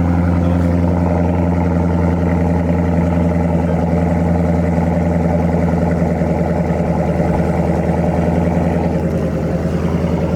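Dodge Scat Pack's 6.4-litre HEMI V8 idling steadily just after a cold start, a deep even rumble from the exhaust.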